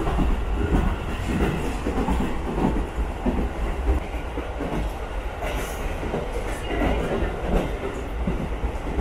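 Running noise of the Furano-Biei Norokko train under way, heard from inside its open-sided passenger car: a steady low rumble with the wheels clattering over the rails.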